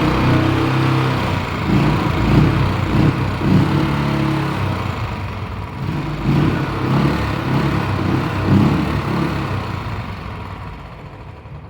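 Royal Enfield Classic 500's single-cylinder engine running and revved up several times, then dying down near the end. The owner describes the problem as a rattle ('lắc lắc').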